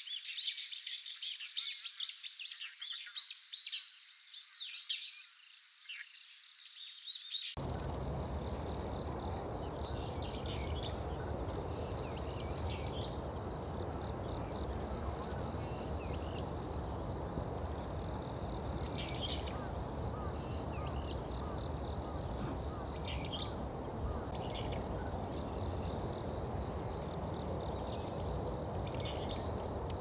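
Birds calling: a quick run of loud, high chirps in the first few seconds, then scattered fainter chirps and two sharp high calls about two-thirds of the way in. Beneath them, from about a quarter of the way in, a steady low outdoor rumble.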